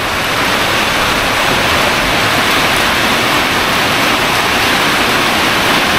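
Heavy rain pouring down hard in a steady, dense hiss, the downpour picking up again in a slow-moving thunderstorm.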